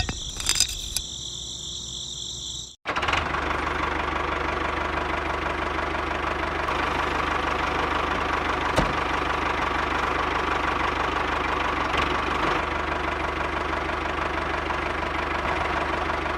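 A small motor running steadily with a high whine. After a sudden cut about three seconds in, a louder, denser engine-like running sound continues steadily.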